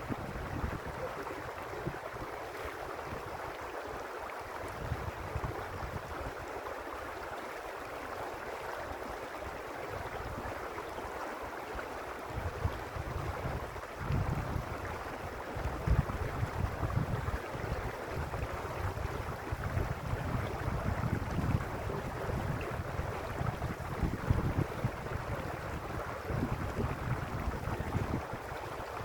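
Mountain creek rushing steadily over stones. From about twelve seconds in, irregular low gusts of wind buffet the microphone.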